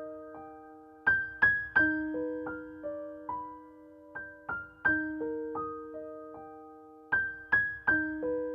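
Background music: a gentle piano melody of single struck notes that ring and fade, playing a short phrase that repeats.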